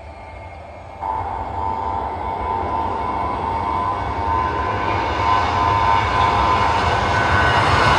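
Jet airliner engines running with a steady whine over a low rumble, jumping up in level about a second in and growing steadily louder.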